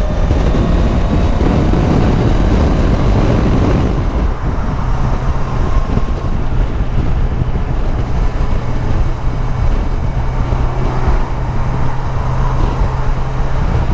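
Motorcycle riding at speed, heard through a helmet microphone: wind rush over the mic with the engine's steady drone beneath. The wind rush is heavier in the first few seconds, after which the engine's low hum stands out more evenly.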